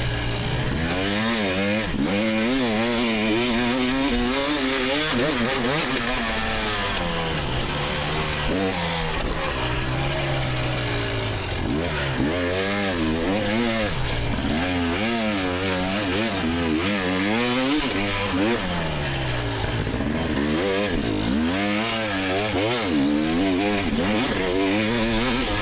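2024 GasGas EX300's 300cc two-stroke engine under race load, its pitch climbing and dropping every second or so as the throttle is worked on and off through the woods section.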